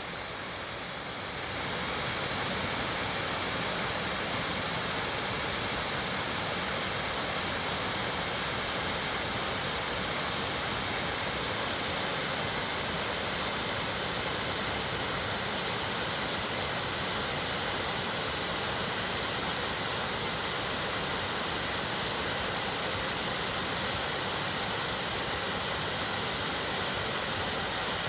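Mountain stream flowing, a steady rush of water that swells in the first two seconds and then holds even.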